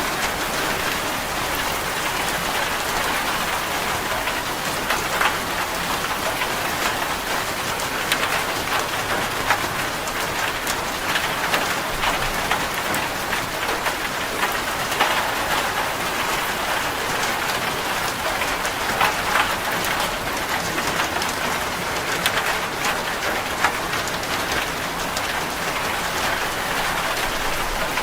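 Heavy rain falling on a corrugated zinc sheet roof: a steady, dense patter with many sharp individual drop ticks on the metal.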